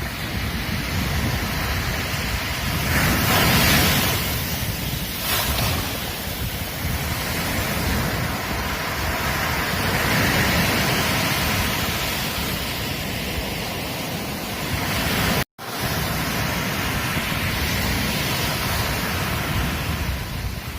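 Ocean waves breaking and washing on a beach: a steady rush that swells loudest about three to four seconds in and again more gently near the middle. The sound drops out completely for an instant about three-quarters of the way through.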